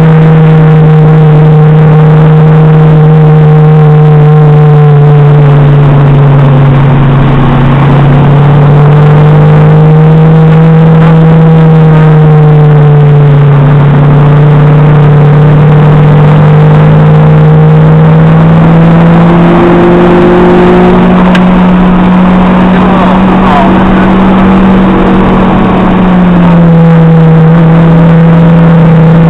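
Acura RSX Type-S's K20A2 four-cylinder engine, heard very loud from inside the cabin while lapping on track, held at high revs. Its pitch wanders slowly up and down, climbing about two-thirds of the way through and falling back near the end.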